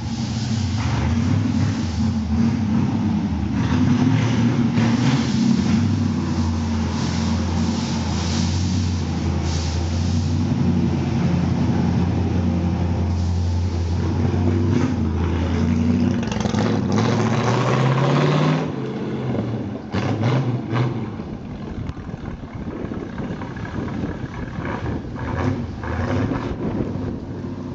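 Ford 289 small-block V8 running through a custom dual stainless-steel exhaust with one silencer per side, giving a classic V8 rumble. The revs climb for a couple of seconds about two-thirds of the way in, then drop off sharply. After that it runs quieter, with a few short, sharp jumps in level.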